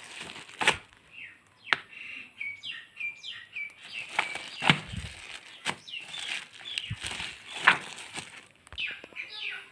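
Small birds chirping over and over in short falling notes. Sharp rustles and knocks of books and packaging being handled break in at irregular intervals, the loudest one near the end.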